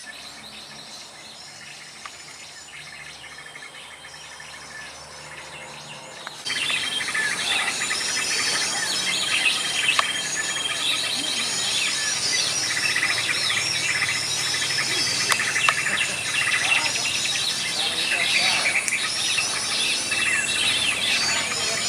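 Many small birds chirping and trilling over one another, faint at first and then suddenly much louder and denser about six and a half seconds in.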